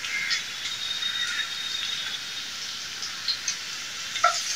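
Chopped garlic and ginger sizzling in hot oil in a nonstick pan, a steady frying hiss. Near the end a wooden spatula stirs them, with a few light scrapes.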